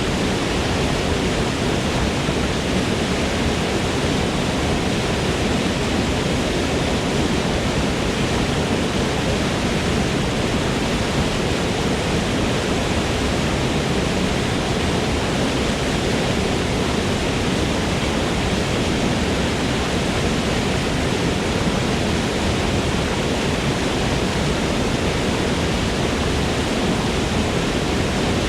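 Forest waterfall: a steady, unbroken rush of falling water, strongest in the low range.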